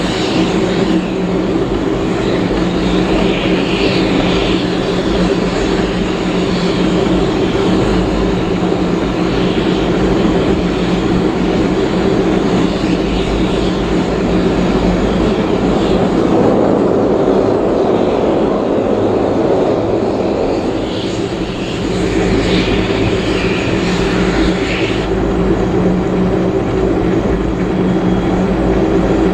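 Steady running noise of a heritage passenger train on the move behind steam locomotive 5917, heard from aboard: a constant drone of wheels on rail and carriage rumble.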